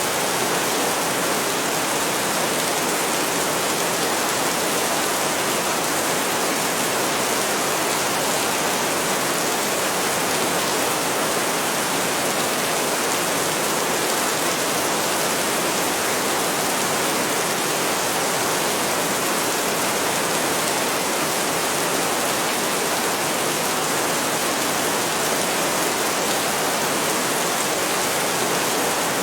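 Heavy rain falling as a steady, dense hiss, even throughout with no thunder.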